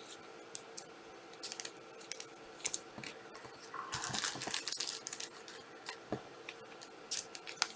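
Trading card packs and cards being handled: light scattered ticks and rustles, with a short stretch of wrapper crinkling about four seconds in.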